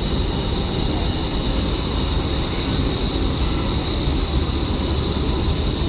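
Boeing 747-400's jet engines at idle as the airliner taxis in to the gate: a steady high whine over a constant low rumble.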